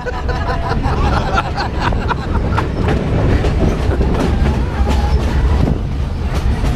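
Passenger train riding the rails, heard from aboard: a steady low rumble with wheel clatter and scattered sharp clicks from the track.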